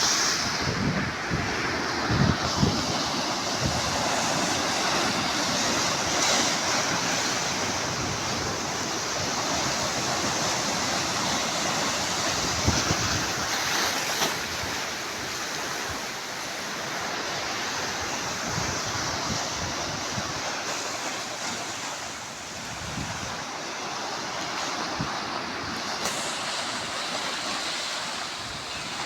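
Sea waves washing against the shore in a continuous rush that swells and eases, with wind buffeting the microphone now and then.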